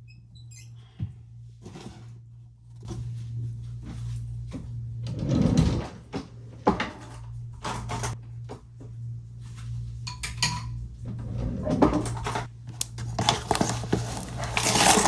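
Kitchen clatter of dishes, cutlery and cupboard doors, irregular knocks and clinks over a steady low hum, loudest about five seconds in and near the end.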